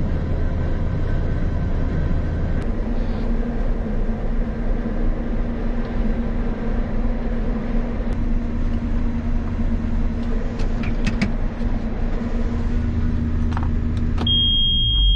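Combine harvester's diesel engine running steadily at a constant speed. About fourteen seconds in it cuts off, and a short, high, steady tone sounds.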